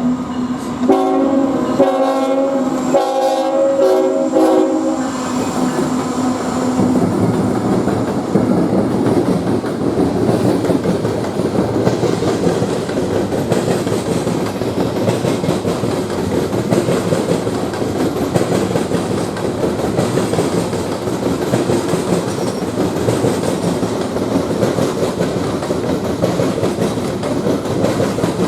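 Locomotive air horn sounding a chord in two blasts, the second longer, followed by a train rolling past with steady rumbling and wheel clatter on the rails.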